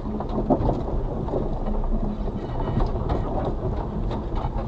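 Suzuki Carry kei truck's 660cc four-wheel-drive drivetrain heard from inside the cab on a rough, steep forest descent: a steady low engine and tyre rumble with many small knocks and rattles from the body and suspension.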